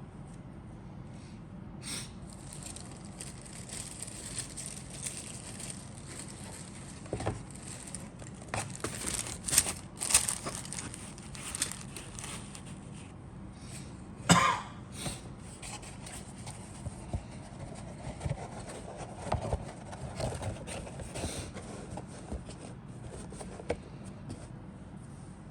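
Model kit parts and packaging being handled: irregular rustling and scraping with light clicks and knocks, and one sharper knock about fourteen seconds in.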